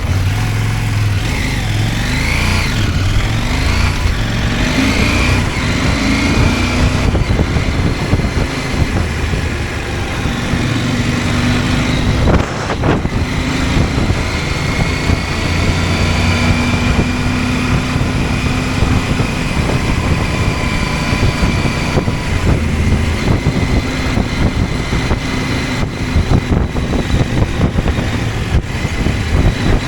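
CFMOTO 800MT motorcycle's parallel-twin engine running under way, its pitch rising and falling several times in the first few seconds, with a single knock about halfway through.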